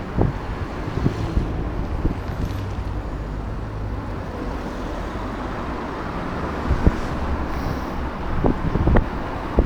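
Wind rushing over a DJI Action 2 camera's microphone on a moving e-bike, with a steady low rumble and a few sharp knocks, the loudest about seven and nine seconds in.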